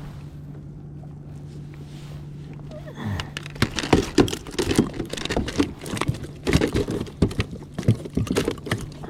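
Steady low hum of the kayak's electric trolling motor, joined from about three seconds in by a quick, irregular run of clicks and knocks.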